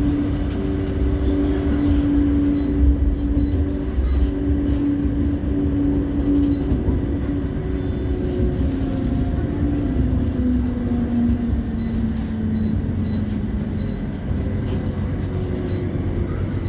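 Interior of a CAF Urbos 3 tram running between stops: a steady low rumble of wheels on rail under the whine of the traction motors. The whine falls in pitch in the second half as the tram slows.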